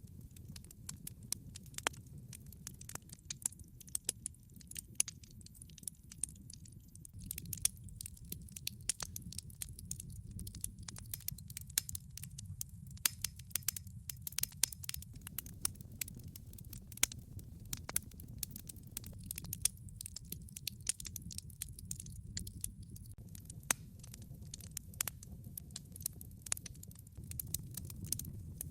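Wood fire burning in a fireplace: a steady low rumble of flame with a continual run of sharp, irregular pops and crackles from the burning logs.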